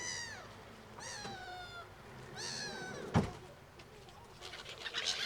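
Birds of a flock calling: three drawn-out, mewing calls that fall in pitch, about a second apart, then a sharp knock, then a run of quicker, shorter calls near the end.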